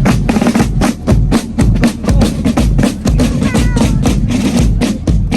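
Marching snare and bass drums of a parade drum corps playing a fast, steady rhythm, with snare rolls over regular bass drum beats.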